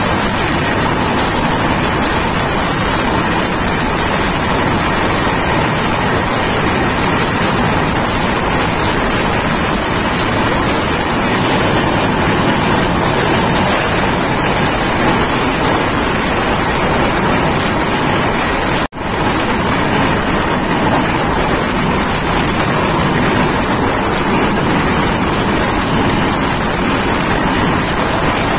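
Passenger train running at speed, heard from the open coach door: a steady rush of wheels on rails and wind against the microphone. The sound cuts out for an instant about two-thirds of the way through.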